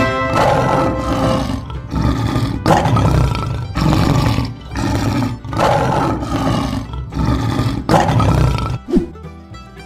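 Lion roar sound effect repeated over and over, about one roar a second, over background music.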